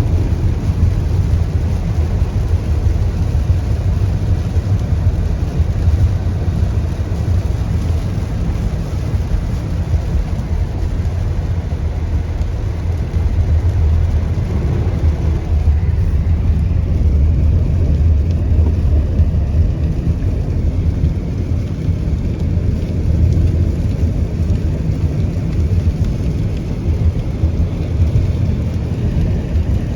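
A car driving on a wet road in heavy rain: a steady, unbroken low rumble of road and tyre noise with the hiss of rain and spray.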